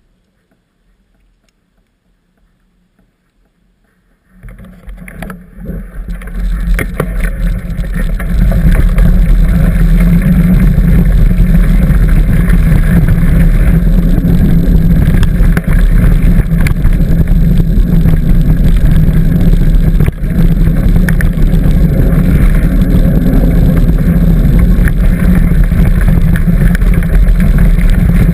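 Near silence, then about four seconds in a loud, steady rumbling rush builds up over a few seconds: wind buffeting the camera microphone and the bicycle rattling over the trail as the ride gets moving.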